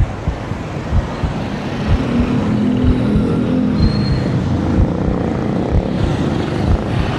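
Wind rumbling and buffeting on the microphone of a moving bicycle, with road traffic around it; a vehicle engine drones past from about two seconds in.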